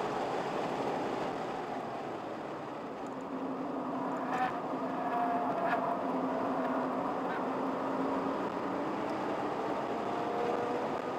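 Car engine and road noise heard from inside the cabin. The engine eases off for a couple of seconds as the car slows for a corner, then pulls harder again through and out of the turn, with two short knocks in the middle.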